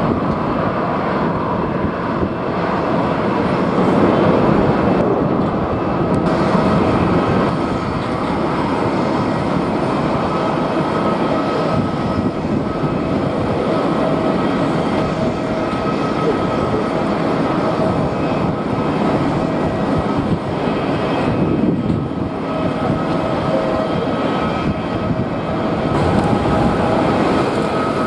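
Jet airliner engines running, with a steady high whine over a broad rumble, mixed with strong wind buffeting the microphone.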